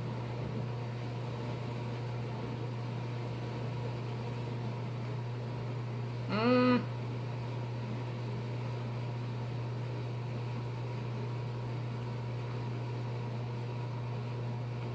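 Steady low mechanical hum of room background noise, with one brief hummed 'mm' from a person about halfway through.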